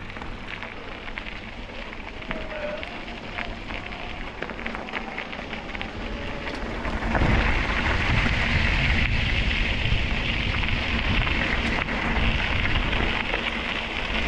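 Riding noise from a bicycle: crackling tyre noise and a low wind rumble on the action-camera microphone, stepping up louder about seven seconds in.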